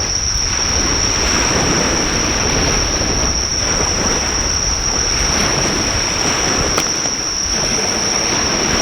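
Surf washing on the shore in slow swells, with insects chirring in one steady high-pitched drone over it. One sharp pop from the driftwood bonfire about seven seconds in.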